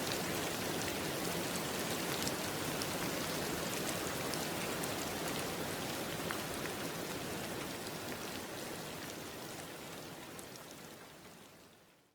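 Steady rain falling, with individual drops ticking on a surface, fading out gradually over the last few seconds.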